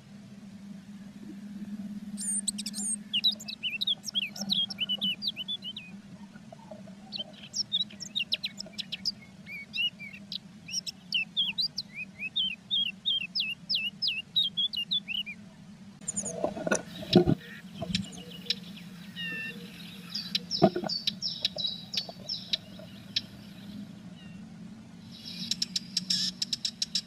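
Blue tits twittering in rapid runs of short, high chirps, then a few knocks and scuffles as a bird moves about inside the wooden nest box, and a fast patter of clicking chirps near the end. A steady low hum runs underneath.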